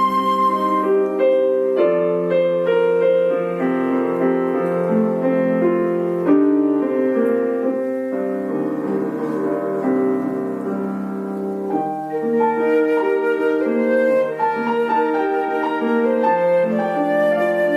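Flute and piano playing a classical duo. A held flute note with vibrato ends about a second in, and the piano carries on with chords. Busier, higher notes come in from about two-thirds of the way through.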